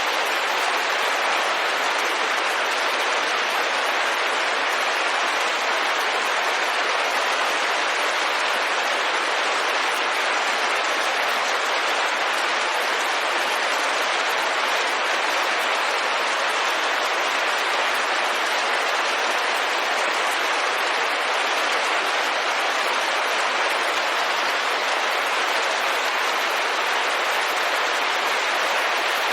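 Steady rain pattering on a window, an even hiss of drops with no change in level.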